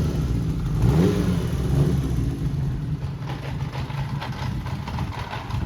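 Kawasaki Z750GP's 738 cc inline-four engine, fitted with CR carburetors and an aftermarket exhaust, blipped briefly a couple of times in the first two seconds, then running at a steady idle.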